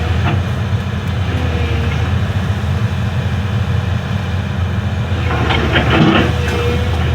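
Excavator's diesel engine running steadily under load, with a run of metallic knocks and rattles about five seconds in.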